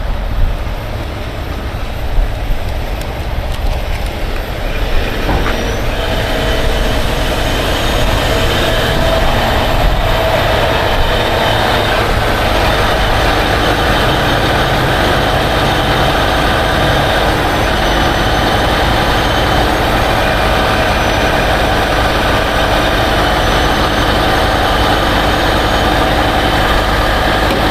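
Heavy tow truck's diesel engine stepping up to a higher speed about six seconds in and then running steadily with a steady whine over it, driving the wrecker's hydraulics under remote control.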